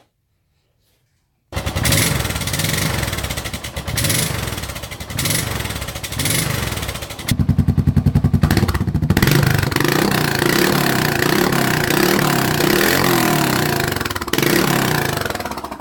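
2008 Suzuki Boulevard S40's single-cylinder engine running loud through an Emgo short reverse cone muffler. The sound cuts in abruptly about a second and a half in and swells with several throttle blips, then settles into a steadier pulsing run that eases off near the end.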